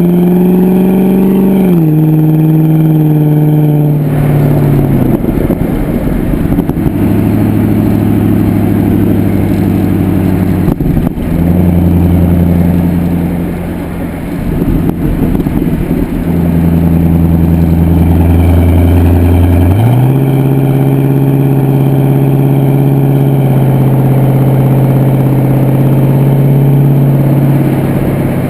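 Exhaust note of a Pontiac G8 GXP's LS3 V8 through an aftermarket Corsa exhaust, running loud and steady. The engine pitch rises slightly and then drops about two seconds in, holds at a few steady levels, and steps up again about twenty seconds in.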